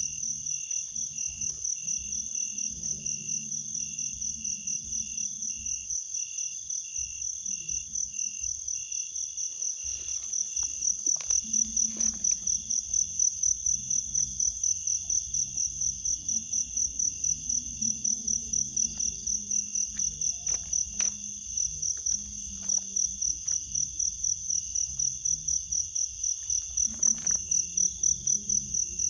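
Chorus of crickets and other insects: a steady, fast-pulsing high trill, with a slower pulsing call lower down for the first few seconds. A few short clicks and knocks come through around the middle and near the end.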